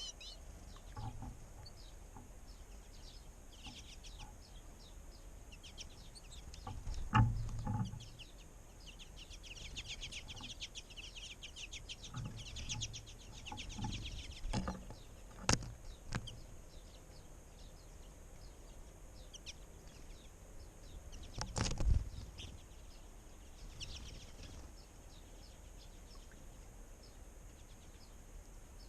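Small wild birds chirping in short, quick calls, busiest in the first half. A few dull thumps break in, the loudest about a quarter and three-quarters of the way through.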